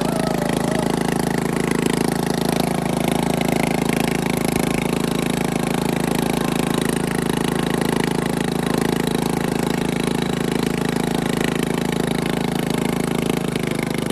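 Bolens riding mower engine running steadily at a constant speed through a homemade exhaust.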